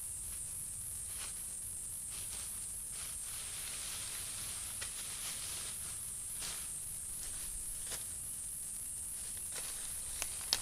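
Steady high-pitched insect chorus with an even pulsing, over light rustling and scattered soft clicks, with a few sharper ticks near the end.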